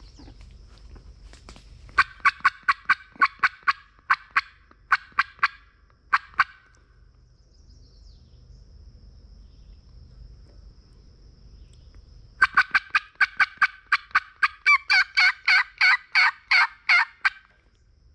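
Two loud runs of turkey calling, a tube call sending out quick series of sharp yelps and cuts: one about two seconds in and a longer one from about twelve seconds in. Between the runs a faint steady insect drone is heard.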